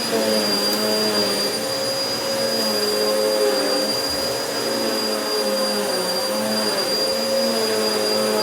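Vacuum cleaner running steadily on carpet, with a high motor whine over the rush of air; its lower hum wavers slightly in pitch.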